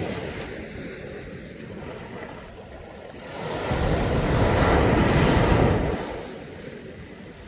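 Sea waves breaking on a beach: the wash of one wave fading at the start, then a bigger wave that builds about halfway through, crashes and washes up the shore before ebbing away near the end.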